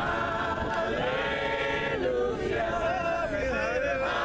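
A cappella choir of voices singing a hymn in parts, with no instruments, sustained notes shifting to new chords about every second.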